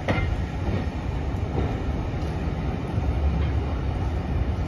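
Railway passenger coach running slowly along the track: a steady low rumble, with a sharp wheel clack over a rail joint at the start and fainter clacks later.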